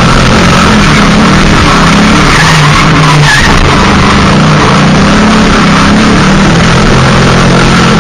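Ford Mustang drift car drifting, its engine held high with the revs rising and falling, over the hiss of sliding tyres. The recording is very loud and close.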